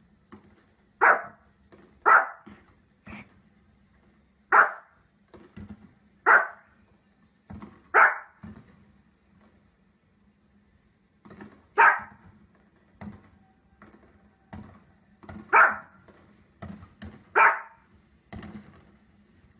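Small dog barking at fireworks on a television: about eight loud, sharp single barks at uneven intervals, with a pause of a few seconds midway. Fainter short thuds fall between the barks.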